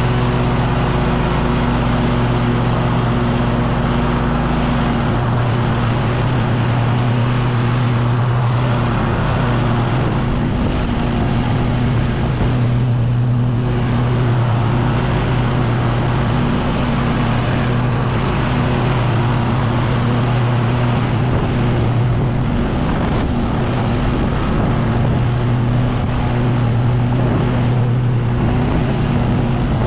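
Echo PB-9010T two-stroke backpack leaf blower running steadily, a constant loud engine drone.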